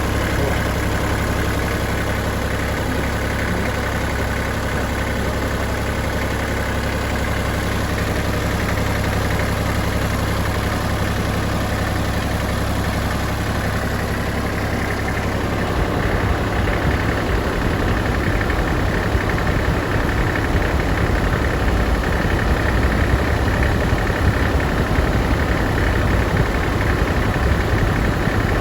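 Farm tractor engine idling steadily; a little over halfway through its sound gets slightly louder and rougher.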